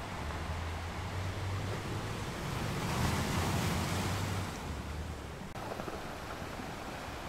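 Sea waves washing onto a shore as a steady surf noise; one wave swells and breaks about three seconds in, then recedes by about five seconds.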